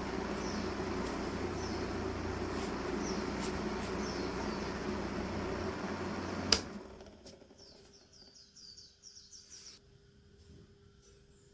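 A small battery-driven fan motor runs with a steady hum, then cuts off with a sharp click about six and a half seconds in. Birds chirp faintly in the background.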